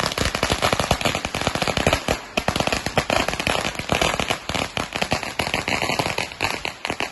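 A string of firecrackers going off in a rapid, continuous chain of sharp bangs.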